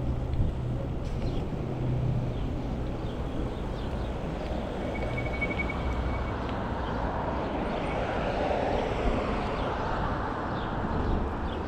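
Road noise and wind rumble on the microphone during an e-bike ride along a street, with the noise of a passing vehicle swelling and fading around eight seconds in. A brief high tone sounds about five seconds in.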